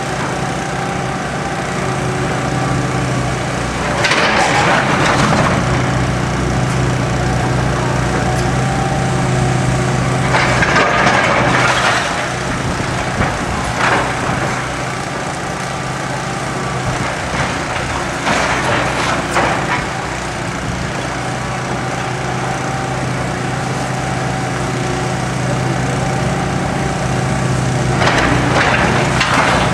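Heavy demolition machine's engine running steadily while it tears into a building, with about five bursts of cracking, splintering wood and crashing debris a few seconds apart.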